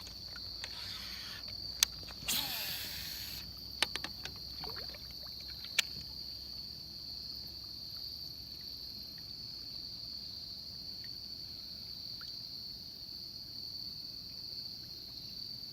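Steady high-pitched drone of insects calling around the pond. A few sharp clicks and a brief rushing swish come in the first six seconds, then only the insects continue.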